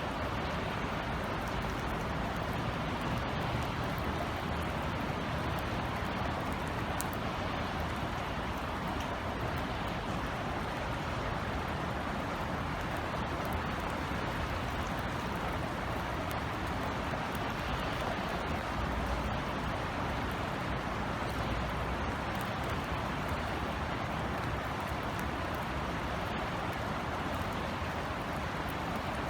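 Steady rain falling, an even hiss with a low rumble beneath it and a few faint ticks of drops.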